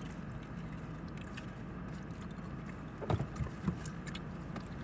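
Steady low background hum, with a few faint clicks and taps about three seconds in.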